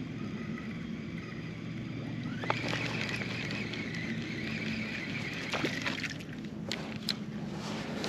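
A boat motor running steadily with water sloshing. A high whirring tone rises in about two and a half seconds in, holds for about three and a half seconds, then stops, with a few light clicks.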